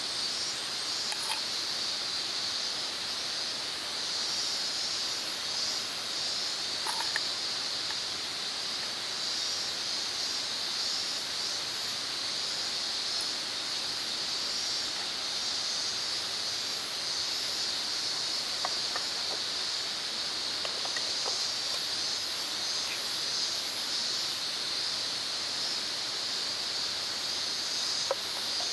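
Insects droning steadily in a high, even chorus, with a few faint clicks now and then.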